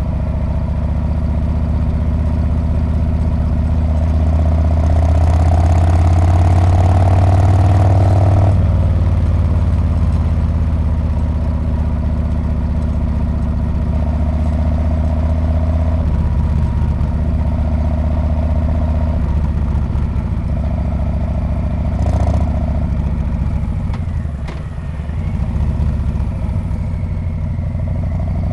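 Harley-Davidson Street Bob's V-twin engine heard through its exhaust while riding. The pitch and loudness climb for a few seconds under throttle, then drop suddenly, after which it runs steadily, easing off briefly near the end.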